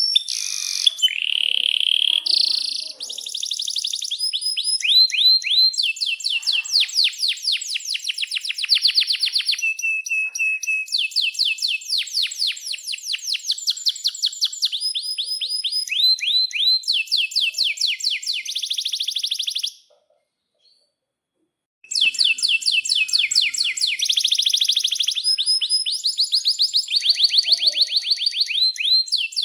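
Domestic canary singing fast, long rolling trills of rapidly repeated high chirps, one run after another. The song breaks off for about two seconds about two-thirds of the way in, then starts again.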